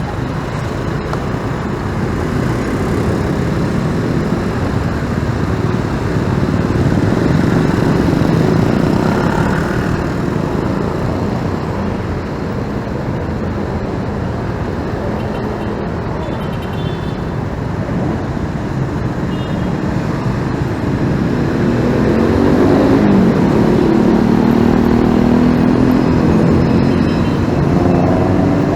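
Continuous riding noise from a motorcycle in city traffic: wind and road rumble with the engines of surrounding vehicles. Engine pitch rises in the last quarter as a motor speeds up.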